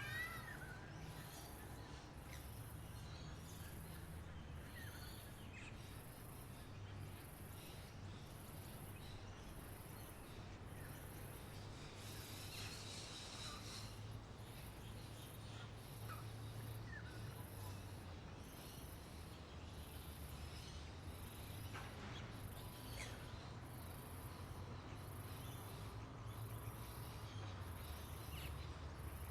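Faint outdoor chorus: a high-pitched insect buzz pulsing about once a second, with scattered bird chirps and calls over it and a steady low rumble beneath.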